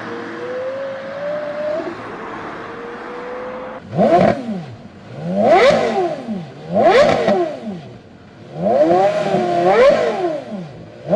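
Porsche Carrera GT's 5.7-litre V10 engine running at light, steady throttle with a slowly rising pitch for about four seconds, then blipped in a series of sharp revs that climb and fall quickly, one held a little longer near the end.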